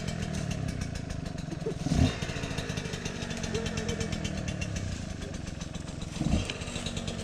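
Dirt bike engine idling, blipped briefly twice, once about two seconds in and again about six seconds in.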